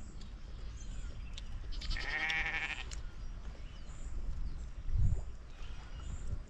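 A single wavering animal call about two seconds in, lasting about a second, over a steady low rumble, with a dull low thump near the end.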